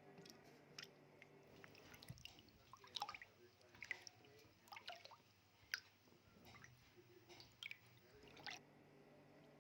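Faint, irregular wet squishes and small clicks of food being handled during preparation, about a dozen soft sounds scattered through the quiet.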